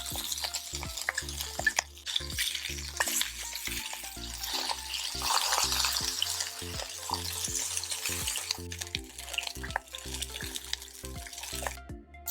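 Hamburg steak patties frying and sizzling, with scattered crackles, over background music with a steady beat.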